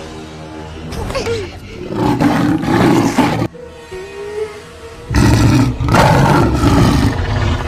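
A large animated dinosaur roaring twice, about a second in and again about five seconds in, over film music.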